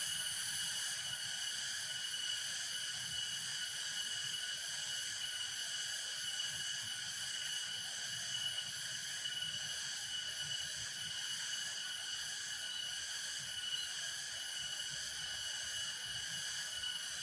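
Insects calling in a steady, high, rapidly pulsing chorus that never lets up, over a faint low rumble.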